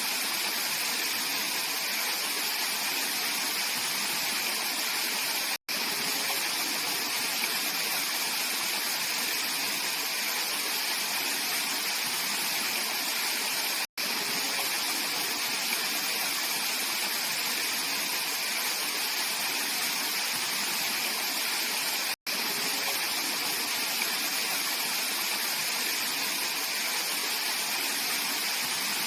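Mountain valley stream flowing with a steady rushing hiss. It cuts out to silence for an instant three times, about eight seconds apart.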